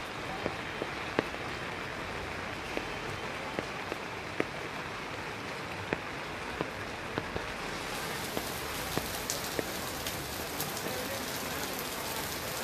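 Steady monsoon rain falling, with scattered sharp drops striking close by. The hiss turns brighter about eight seconds in.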